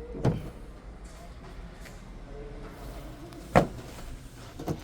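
Clunks from a pickup bed cover being pulled across the load bed: a small click just after the start, one sharp knock about three and a half seconds in and a lighter one near the end.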